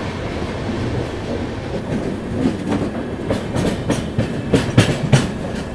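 Passenger train running on the track, heard from an open coach door: a steady rumble and rush of air, with the wheels clacking over rail joints in a run of sharp clacks through the second half.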